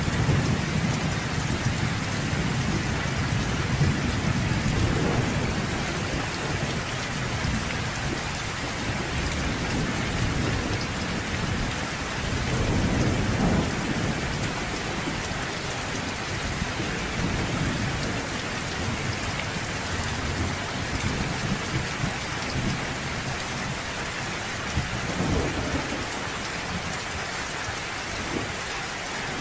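Steady heavy rain falling, with low rolling thunder rumbling and swelling several times, loudest in the first few seconds and again about halfway through.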